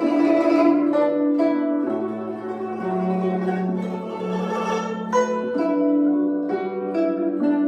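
Guzheng, the Chinese plucked zither, playing a slow instrumental melody: plucked notes that ring on and overlap.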